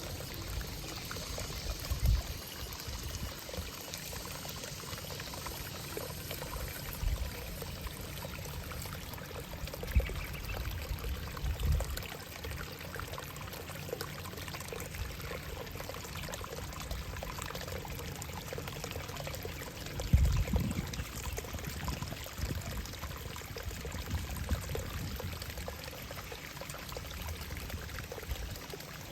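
Steady rush of running water, such as a small stream or water channel, with a few short low thumps, the loudest about two-thirds of the way through.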